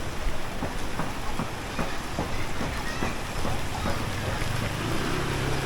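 Wet street sounds in the rain: an even hiss with irregular sharp taps and drips, and a vehicle engine's low, steady hum coming in from about four seconds in.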